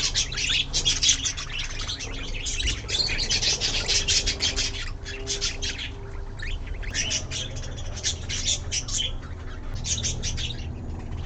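Budgerigars chirping and chattering in rapid, dense runs of short high chirps, with a brief lull about halfway through; the calls stop near the end.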